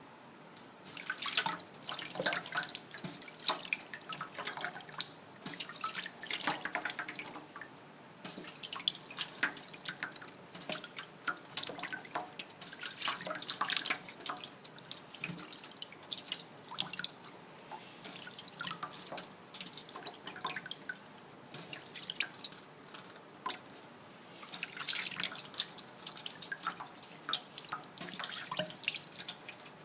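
Water from a kitchen sink tap splashing and dripping irregularly as a young moustached parakeet bathes under it, the splashing growing louder and quieter in uneven spells.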